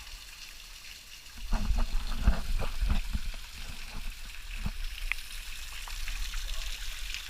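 Water splashing and sloshing close to the microphone, in a cluster of heavy splashes and knocks between about one and a half and three seconds in, with another about two seconds later. A steady hiss of flowing water runs underneath.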